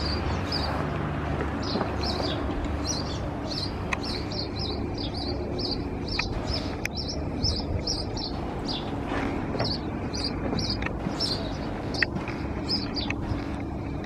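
A bird chirping over and over, about three short high chirps a second, over a steady low background rumble.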